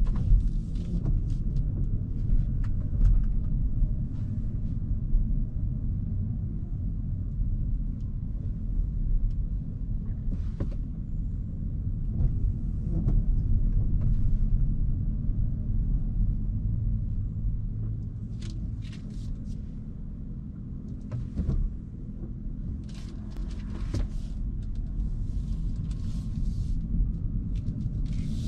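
Hyundai Kona Hybrid driving, heard as a steady low road and tyre rumble from within the car, with a few faint brief hisses and ticks scattered through it.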